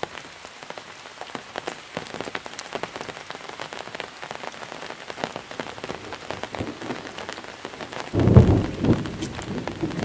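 Monsoon rain, with many separate drops striking a surface in a dense, irregular patter. About eight seconds in, a sudden deep rumble of thunder breaks in and is the loudest sound.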